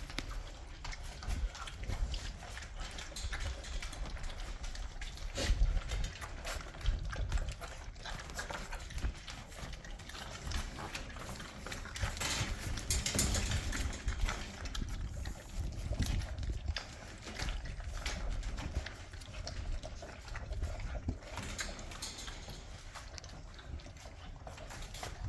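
Rottweiler puppies eating: a steady run of chewing and snuffling noises with many small clicks and knocks.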